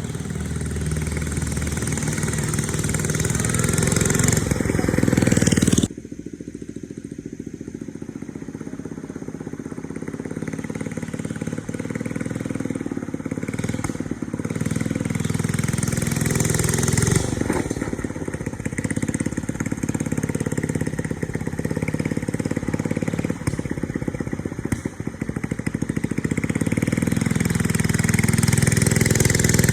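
Small engine of a 1979 Thunderbird mini bike running as the bike is ridden, speeding up and easing off. Its sound drops away suddenly about six seconds in, then builds again.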